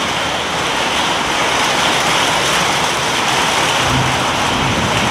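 Heavy rain falling steadily, an even hiss of rain. A low rumble joins in near the end.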